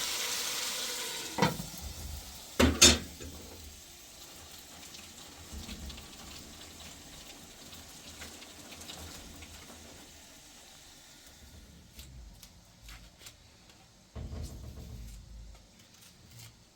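Food sizzling in a pan, loud at first and dying away over about three seconds, with two sharp knocks about one and a half and three seconds in. After that there are only faint scattered ticks, and a low thud near the end.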